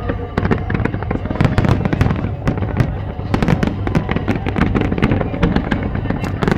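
Fireworks going off in a dense barrage of many rapid cracks and bangs, one on top of another, over a constant low rumble.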